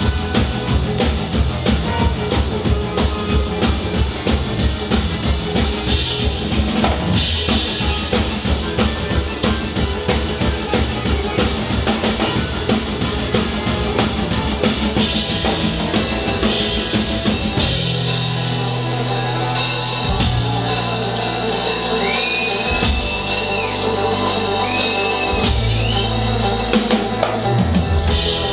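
Live band playing an instrumental passage of a metal/rock cover on a drum kit with fast, driving kick-drum beats. About two-thirds of the way in, the drumming gives way to long held low bass notes, with a couple of high notes bending upward above them.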